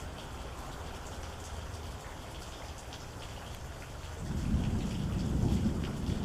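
Steady rain with scattered drops ticking. About four seconds in, a low roll of thunder starts rumbling and grows louder.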